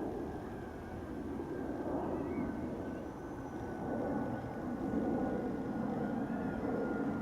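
Jet noise from an Airbus A330's Rolls-Royce Trent 772B turbofans during takeoff: a broad rumble that builds about halfway through, with a thin steady whine drifting slightly lower in pitch.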